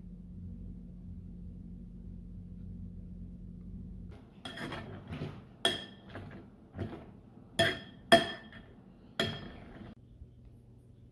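A steady low hum that stops about four seconds in, then about eight sharp, ringing clinks of hard objects knocking together at an uneven pace, the loudest a little past the halfway point.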